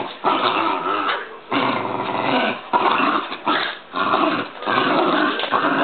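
Jack Russell terrier play-growling during a game of tug with a toy, a string of long growls broken by short pauses.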